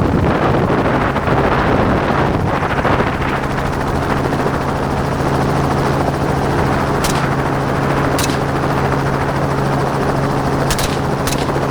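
Helicopter in flight heard from on board: steady rotor and engine noise, with a steady low hum coming in from about three seconds in.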